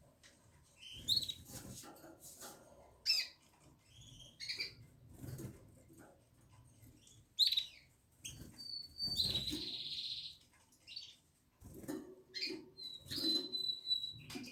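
Pet canaries in their cage giving short chirping calls, among scattered clicks and rustles of movement. A brief buzzy trill comes about nine seconds in, and a held whistled note near the end.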